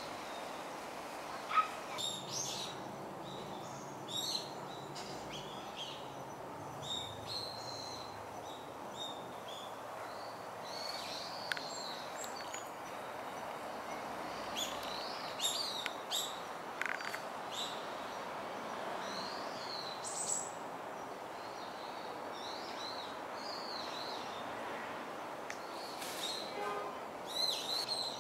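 Birds chirping and calling at irregular intervals, short high chirps and quick up-and-down calls, over a steady outdoor background noise.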